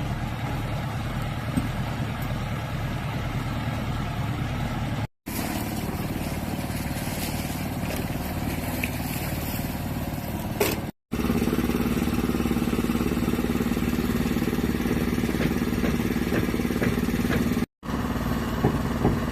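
Engine running steadily with a low hum, broken by three short silent gaps; in the middle stretch the hum is deeper and stronger.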